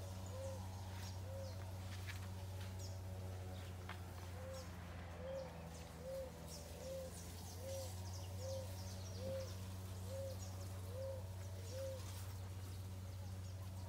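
A bird repeats a short hooting note about a dozen times, roughly once a second, with a brief pause after the first two. A steady low hum runs underneath.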